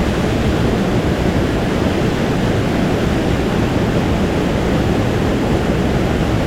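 Mountain stream rushing and cascading over rocks, a steady, even rush of water.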